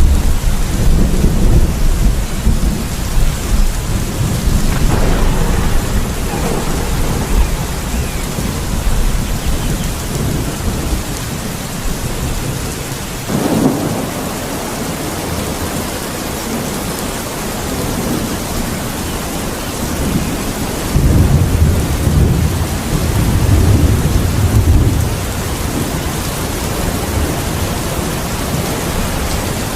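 Steady rain with thunder rumbling low in the first several seconds and again a little past the twenty-second mark, and a sharper thunderclap about thirteen seconds in.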